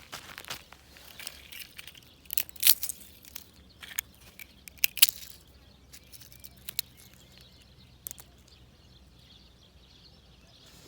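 Footsteps crunching through dry brush and twigs, with sharp snaps and crackles loudest in the first half, then quieter with faint bird chirps.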